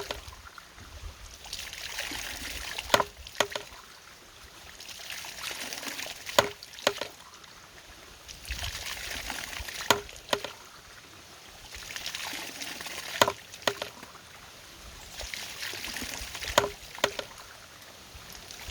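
A water-powered mechanism working in a steady cycle: water pours for about two seconds, then there is a sharp knock followed by a lighter one. The cycle repeats about every three and a half seconds, five times.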